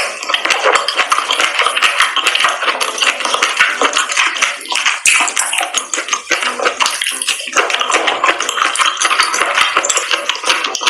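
Close-miked mukbang eating sounds: sauce-coated octopus and seafood being chewed with wet, sticky mouth sounds, a dense run of small wet clicks and smacks.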